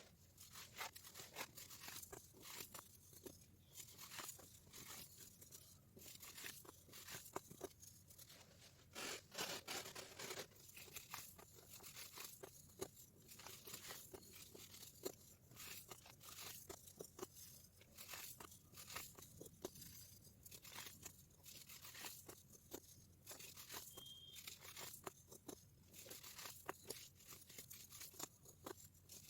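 Hardened baking soda being crushed: a dense, irregular run of small crisp crunches and crackles, with a busier, louder cluster about nine to ten seconds in.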